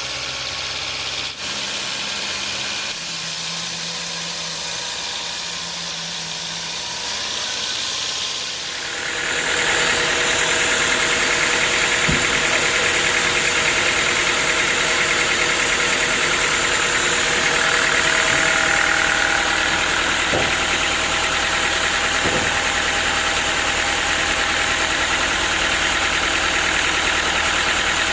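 Sawmill machinery running steadily with an engine-like hum. About nine seconds in it grows louder and fuller, then holds steady, with a few faint knocks.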